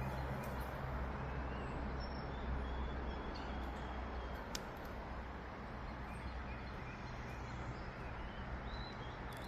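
Steady outdoor background noise with a low rumble underneath and a few faint, short bird chirps scattered through it.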